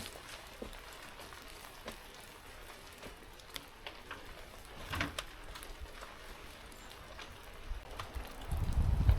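Steady rain with scattered drops tapping, one louder tap about five seconds in. Wind starts buffeting the microphone near the end.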